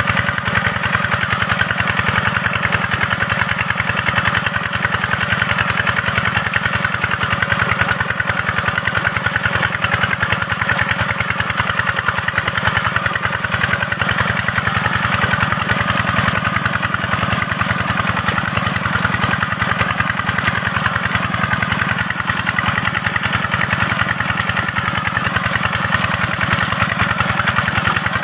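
Diesel engine of a two-wheel hand tractor running steadily with a fast, even beat.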